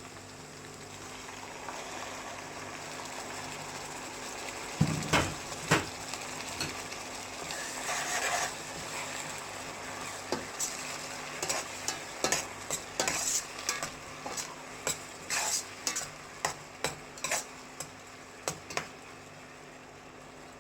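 Onion paste and shallots frying in oil with a steady sizzle, while a spoon stirs and scrapes the pan. Two loud knocks come about five seconds in, then frequent clicks and scrapes of the spoon against the pan, easing off near the end.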